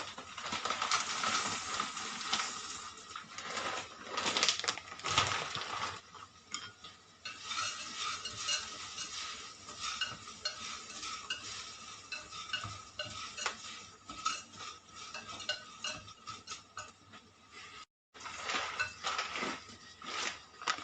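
Dry elbow macaroni tipped into a cooking pot and stirred with a utensil, with irregular clinks and scrapes against the pot over a light sizzle from the sautéed chicken and vegetables.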